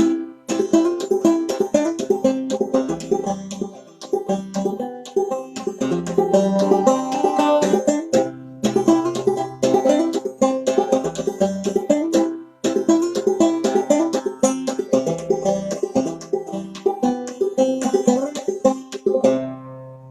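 Five-string banjo played clawhammer style: an old-time tune of quick, steady plucked notes. The tune ends near the end, its last notes ringing out and fading.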